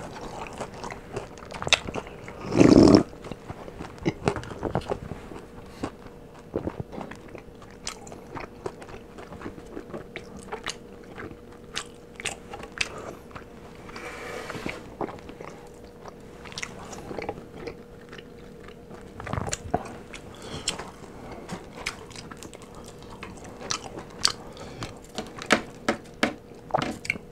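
Crunching bites and chewing of crispy fried chicken close to the microphone, a run of irregular crisp cracks and mouth noises. One louder, lower sound comes about three seconds in.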